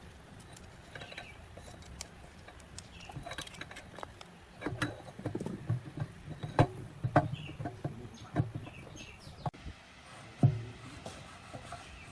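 Irregular knocks and clicks, busiest around the middle, with one sharp louder knock near the end.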